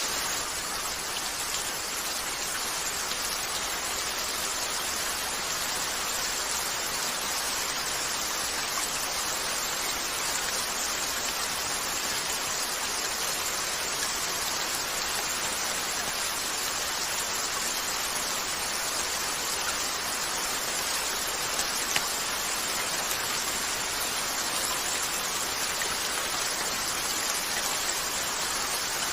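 Steady rain falling on a window, an even hiss with a few faint crackles from a wood fire in a fireplace; one sharper pop about three quarters of the way through.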